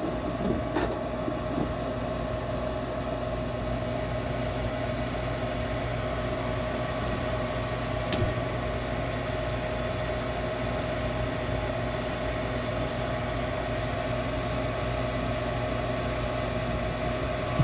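Furnace draft inducer motor running with a steady hum and whine, cutting off near the end.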